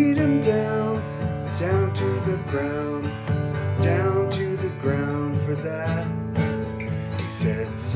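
Acoustic guitar being strummed in a song.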